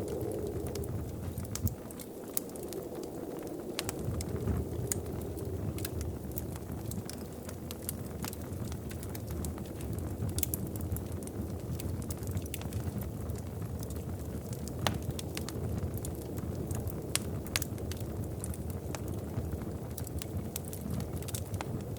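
Wood fire crackling, with frequent sharp irregular pops over a low steady rumble.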